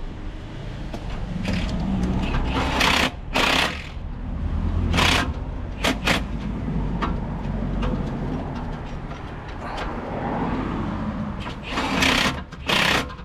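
Impact gun running bolts in: short, sharp rattling bursts, two together about three seconds in, a few single ones around five to six seconds, and two more near the end, over a steady low rumble.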